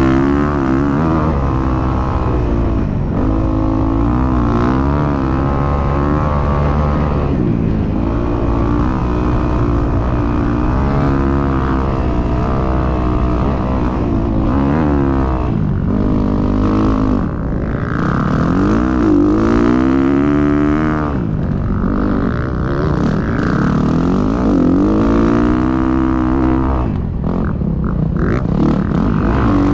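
Dirt bike engine revving up and down again and again, its pitch rising and falling as the rider throttles and shifts through the gears.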